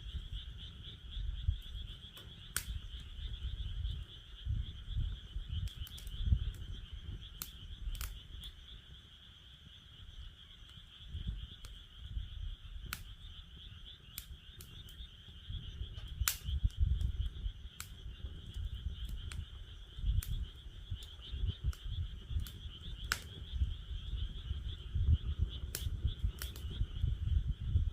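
Wood fire crackling in a fire pit, with irregular sharp pops and snaps, some louder than others, over a low rumble. Underneath runs a steady high-pitched chorus of calling frogs.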